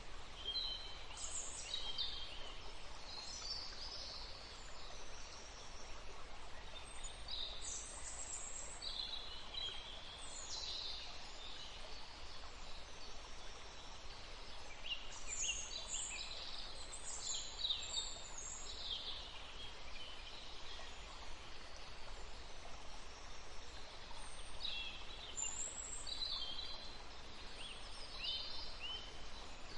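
Several songbirds chirping and singing in a forest: short high, quick phrases and trills come in clusters throughout, over a steady faint background hiss.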